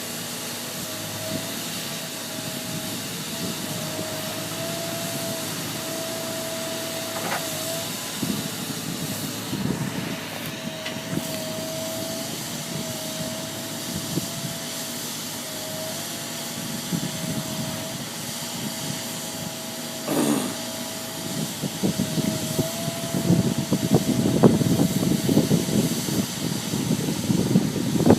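Excavator running, with a steady whine over hiss and engine rumble. Louder, irregular rumbling and knocking comes in over the last several seconds.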